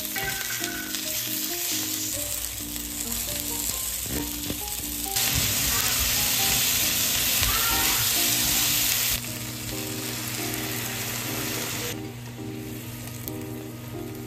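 Chicken and chopped onion sizzling in a nonstick frying pan while being stirred with a spatula. The sizzle gets louder about five seconds in and drops back about four seconds later.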